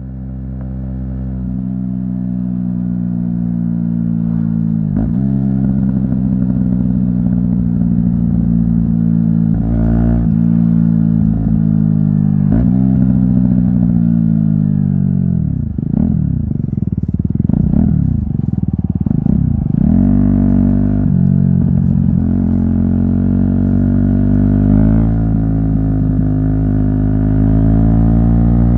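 Aprilia SX 125's single-cylinder 125 cc engine through an Arrow aftermarket exhaust, ridden under way: mostly steady throttle, with short breaks in the note for gear changes a few times. Through the middle the revs drop and swing up and down, and near the end they climb again as the bike accelerates.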